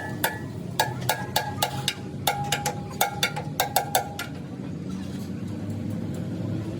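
Hammer blows on metal, about four a second, each ringing briefly, stopping about four seconds in; a low steady hum runs underneath.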